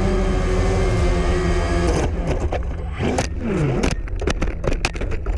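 An engine running steadily. About two seconds in it gives way to a string of clicks and knocks, with pitches sliding downward.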